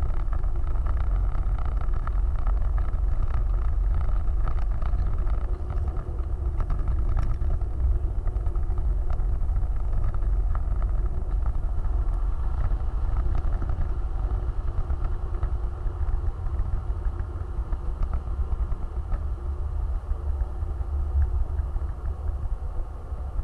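Off-road vehicle running, a steady low rumble of engine and drivetrain with scattered knocks and rattles.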